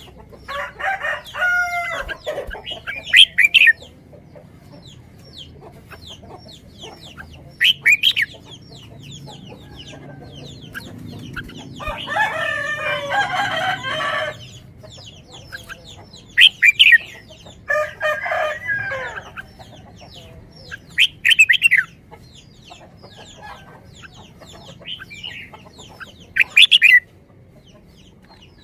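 Chickens calling: short, sharp clucks every few seconds, with three longer, drawn-out calls of one to two seconds each.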